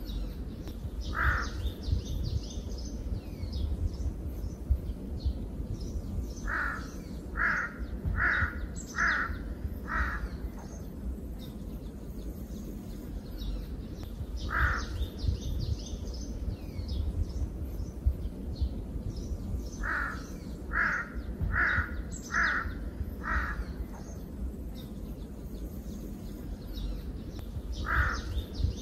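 Birds calling: a loud call comes singly or in runs of five, about one a second. Faint high chirps of smaller birds and a steady low rumble carry on underneath.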